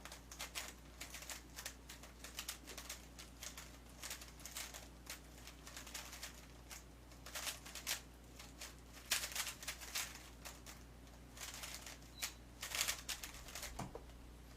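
A 3x3 speed cube being turned fast, plastic layers clicking and clacking in quick flurries with brief pauses between them. It ends with a single low thump near the end.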